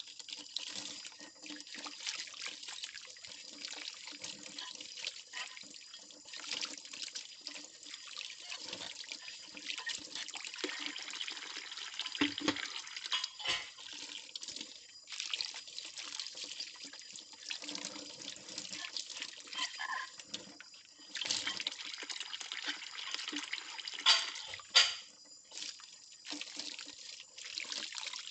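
Ceramic plates being washed by hand at a kitchen sink: running tap water splashing, with clinks and knocks of the plates against each other and the sink. The two loudest knocks come a few seconds before the end.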